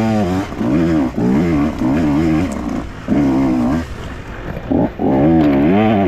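Dirt bike engine revving hard in repeated surges, its pitch wavering up and down with the throttle, with a brief let-off a little after four seconds.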